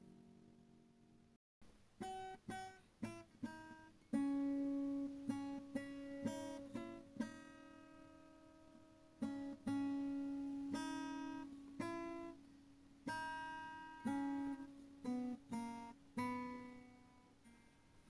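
Background music: an acoustic guitar picking a slow melody, each note ringing out and fading, with a brief break about one and a half seconds in.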